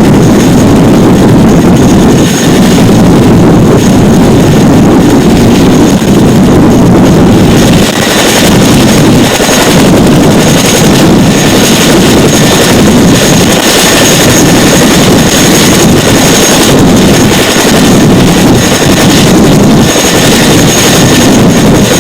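CH-47 Chinook helicopter's twin turboshaft engines and tandem rotors running, a loud steady noise with rotor wash buffeting the microphone.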